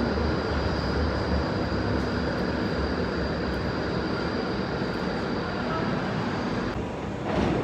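Steady rumble and hiss of an electric train at a railway station platform, with a thin high whine that cuts off near the end, followed by a rising swell of train noise.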